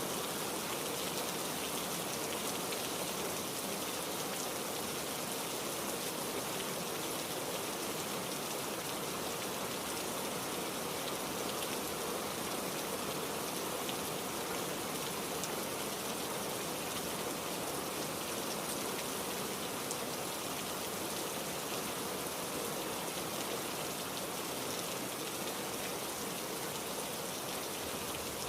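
Heavy rain falling steadily: a dense, even hiss of drops with faint individual taps, and no thunder.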